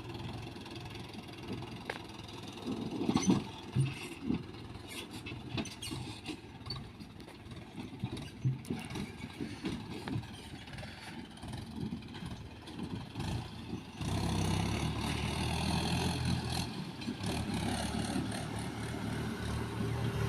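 Diesel engine of a JCB 3DX backhoe loader running at work, with scattered clanks and knocks. About two-thirds of the way through, the engine steps up louder and holds there.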